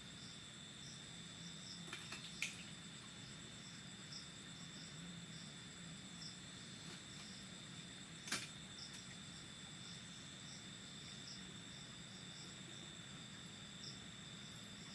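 Faint insect chorus of crickets: a steady high-pitched trill with a second insect chirping in short, evenly repeated pulses. Two sharp clicks stand out, one a little over two seconds in and one about eight seconds in.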